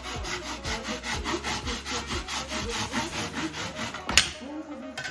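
A hand tool is drawn back and forth over a gypsum decorative stone to shape it, at about five or six rasping strokes a second. The strokes stop about four seconds in, followed by a single sharp knock.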